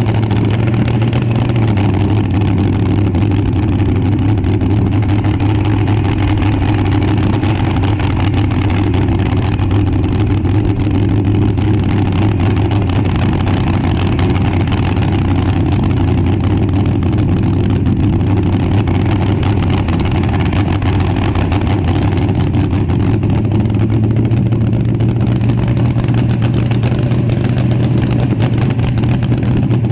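Front-engine dragster's engine running at a steady, loud idle. Its pitch dips slightly about a second and a half in and rises a little again after about twenty-three seconds.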